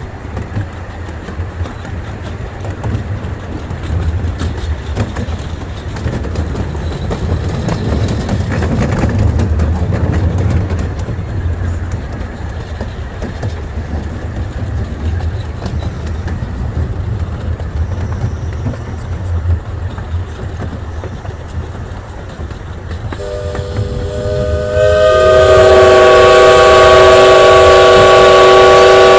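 Miniature steam train running: a steady low rumble and clatter of the cars on the rails. About 23 seconds in, a loud chime steam whistle sounds a chord of several pitches. More notes join it about two seconds later, and the whistle is held for about six seconds before it stops abruptly.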